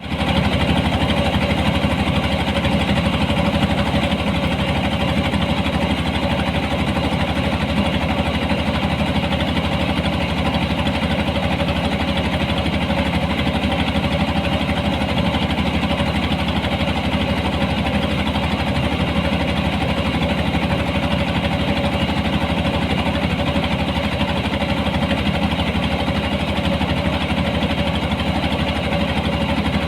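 Engine of a rice-harvesting machine running steadily at constant speed, with no change in pitch.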